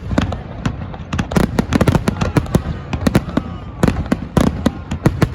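Fireworks going off in a rapid barrage: many sharp bangs and crackles a second, overlapping, with a few faint whistles among them.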